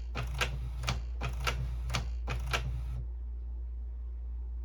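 Canon Pixma inkjet printer mechanism running, a sharp click about every half second with a whirr between clicks; it stops about three seconds in and starts again near the end. It is apparently running a print-head cleaning cycle.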